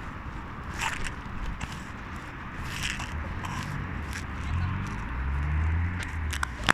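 Street traffic noise with a vehicle engine passing, the loudest part, rising slightly in pitch from about four and a half seconds in, and a few short sharp clicks.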